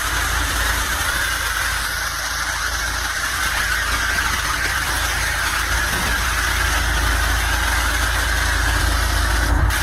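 Pressure washer running: a steady engine drone under the continuous hiss of the spray.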